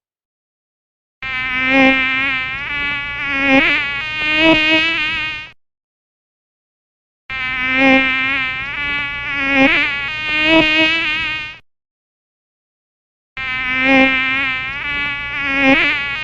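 Insect buzzing in flight, its pitch wavering. The same clip about four seconds long is played three times with short silent gaps.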